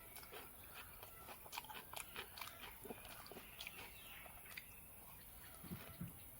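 A person chewing and crunching food close to the microphone: a run of small irregular crisp clicks and mouth smacks.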